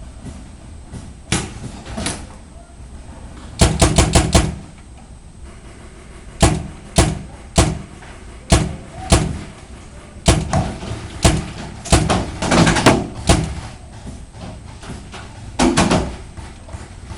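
Paintball markers firing: a rapid string of about five shots, then single shots every second or so and two more quick clusters, each a sharp crack.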